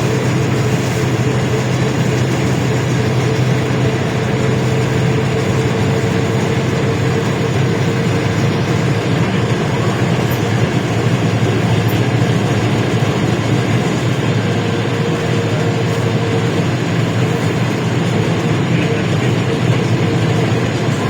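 LiAZ-677M bus running steadily under way, its ZIL V8 engine humming over road and body noise as heard from inside the cabin.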